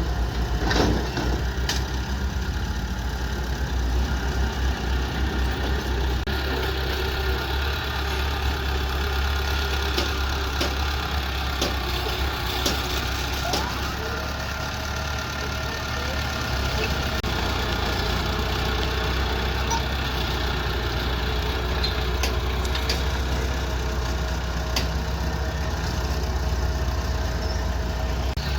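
Excavator engine running steadily at low revs, with scattered clicks and knocks over the drone.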